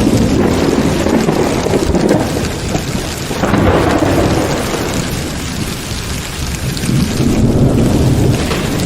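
Heavy rain falling steadily through a thunderstorm, with low rolling thunder that swells a few seconds in and again near the end.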